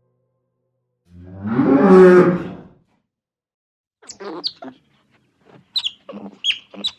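An animal call: one loud, rough, pitched cry about a second and a half long, swelling and fading. After a short pause comes a quick string of short, high squeaks from a small animal.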